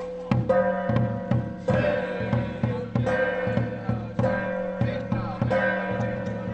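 Temple ritual music: a steady drum beat of about three strikes a second under sustained, held melodic tones.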